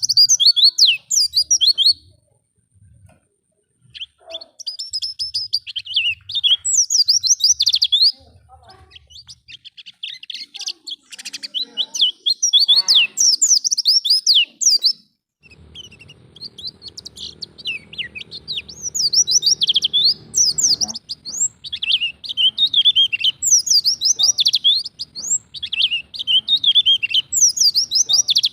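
White-eye (pleci) singing in the wild 'ngalas' style: rapid, high twittering phrases of a few seconds each, with a short pause about two seconds in. A lure song for getting young white-eyes to sing.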